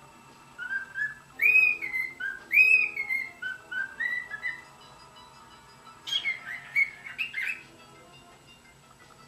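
Cockatiel whistling its song: a phrase of clear whistled notes that step up and down for a few seconds, then, after a short pause, a quicker run of chirpy notes.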